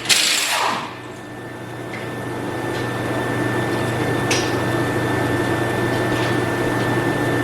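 A loud rushing noise cuts off about a second in. A steady machine hum follows, with a thin high whine, and it grows a little louder before holding level.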